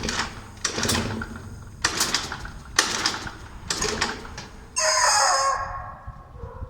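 Rubber chicken toy squeezed in short squawks, four quick ones and then a longer, louder squawk about five seconds in.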